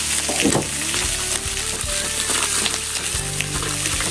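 Pork and vegetables sizzling steadily on a hot plate over a campfire, with a few small pops and crackles. Background music plays under it.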